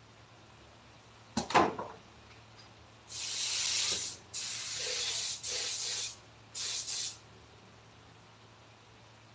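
A sharp knock, then three bursts of spray hiss: a long one, a longer one, and a short one near the end.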